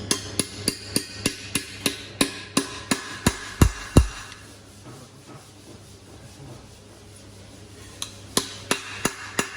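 Hammer blows on the metal of a Mercedes Vito 447 propshaft, knocking the worn center support bearing off the shaft. There are ringing metallic strikes about three a second, the last few heavier. The blows stop for about four seconds, then resume near the end.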